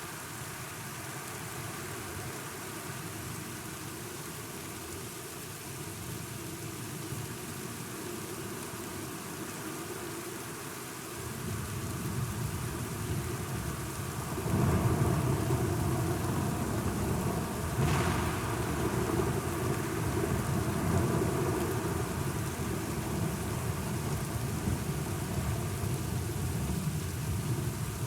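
Thunderstorm: steady rain falling, with thunder that starts as a low rumble about a third of the way in and swells into a loud, long rumble about halfway through, with one sharper crack a few seconds later.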